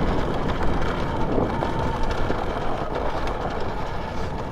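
Alta electric dirt bike being ridden over a trail: steady rolling noise of tyres, chain and chassis with light clatter, and a faint steady electric-motor whine that comes in about a second and a half in.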